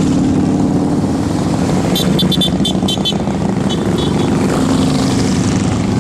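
Motorcycle engines running steadily and loudly. About two seconds in, a quick run of short high-pitched chirps sounds over them for about a second.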